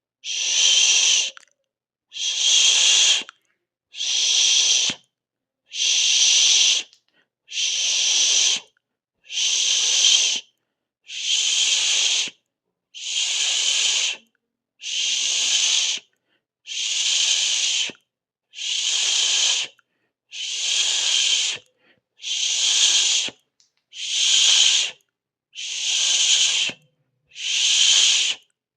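A person making a hissing 'sss' sound with the mouth, over and over at an even pace of about one hiss every two seconds, each hiss lasting just over a second with a brief pause between.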